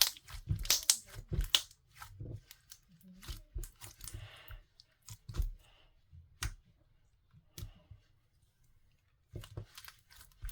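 Clear slime being squished and pressed, making irregular crackling, clicking pops. They come thickly for the first two seconds, then more sparsely, and pause for about a second near the end before starting again.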